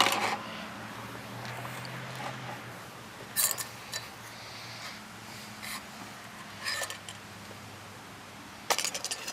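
Light metallic clinks and taps, scattered a second or so apart with a quick cluster near the end, as the parts of cut-open oil filters are handled, over a steady low hum.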